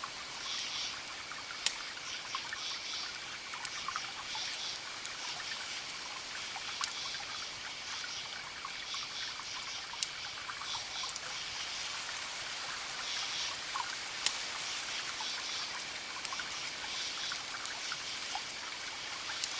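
Wood campfire crackling, with a few sharp pops, while crickets chirp in pulsing trills and one keeps up a steady high trill.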